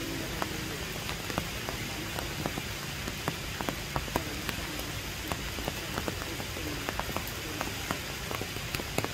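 Steady rain: a constant hiss with many irregular, sharp ticks of individual drops striking close by.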